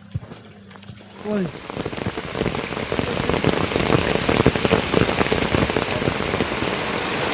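Heavy rain pattering down on surfaces. It sets in about a second in and grows louder, with dense close drop hits. Just as it starts there is a short sound that falls in pitch.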